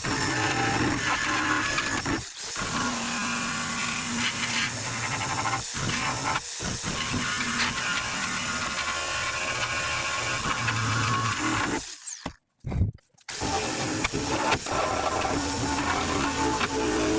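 Power sander running steadily against a truck body panel during bodywork sanding. It pauses briefly a few times, then stops about 12 seconds in with a falling whine as it spins down, and starts again a second later.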